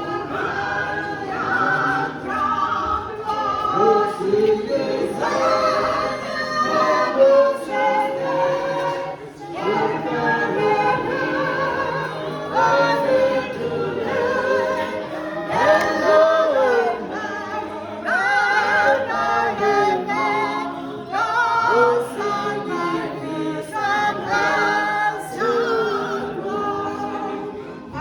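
A choir and congregation singing a hymn a cappella, led by choristers, in unbroken phrases.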